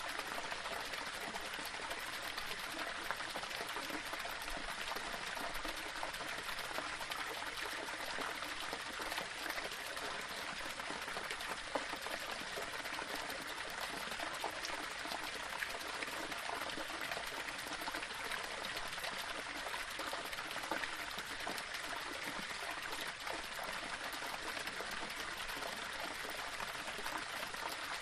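Small waterfall splashing and trickling over rocks: a steady, even rush of falling water with small splashes throughout.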